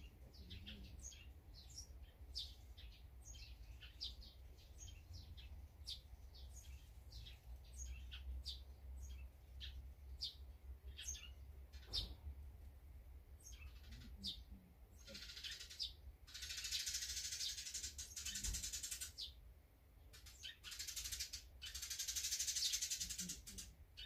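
Small garden birds at a feeder chirping, a quick run of short high chirps one after another. Later come two louder spells of dense high hiss, the first about four seconds long and the second about three.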